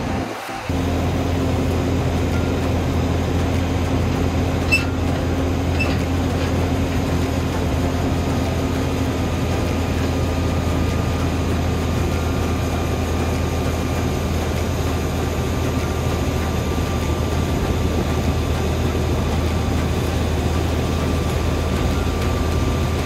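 Heavy engine running steadily at constant speed, a low even hum with no change in pace.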